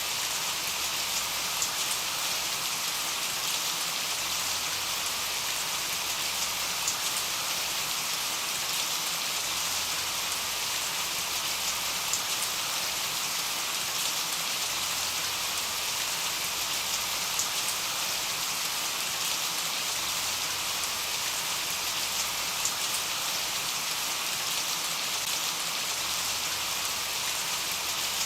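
Steady rain falling on a surface, with a constant hiss and scattered faint drop ticks.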